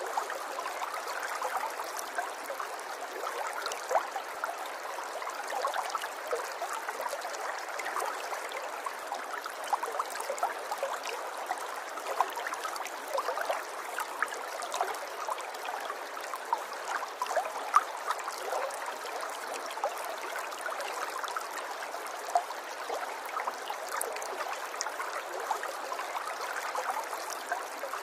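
Shallow river water running and babbling steadily, with many small splashes and gurgles.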